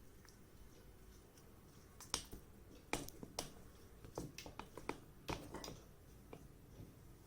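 Hands handling a laptop charger and its packaging: a quick run of sharp plastic clicks and short rustles, starting about two seconds in and dying away near the end.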